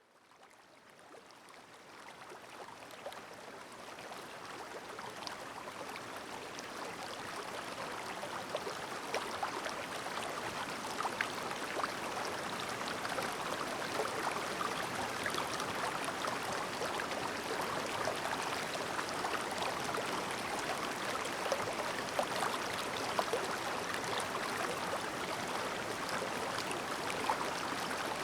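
Clear mountain stream babbling, with many small splashes and droplet sounds in a steady rush of water. It fades in from silence over the first several seconds, then runs steadily.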